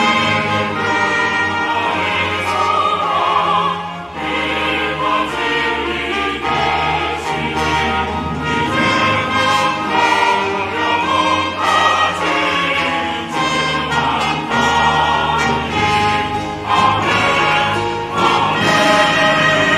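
Choir singing with an orchestra: sacred choral music, full and continuous.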